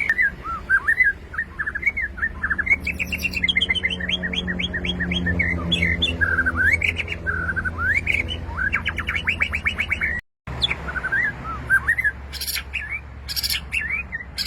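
White-rumped shama (murai batu) singing a fast, varied song of whistled notes and rapid trills, over a steady low hum. The sound cuts out for a split second about ten seconds in.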